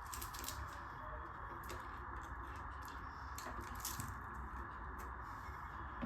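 Close-up eating sounds of tandoori butter roti with dal: soft, wet mouth clicks and chewing several times a second over a steady background hiss.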